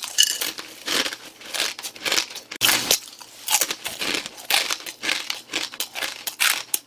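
Dry, crushed instant ramen noodles being crunched and chewed with the powdered seasoning on them, an irregular run of crisp crunches.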